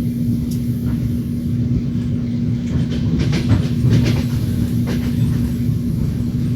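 Train wheels rolling under a moving railway carriage: a steady low rumble with a constant hum, and a quick run of wheel clacks over a rail joint around the middle.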